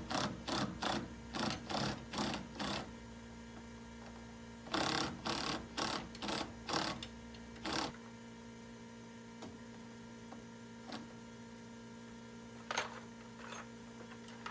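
Socket wrench turning the 10 mm bolts on a combine's plate, heard as short rattling bursts about three a second, in two runs separated by a pause. A low hum underneath cuts off about halfway through.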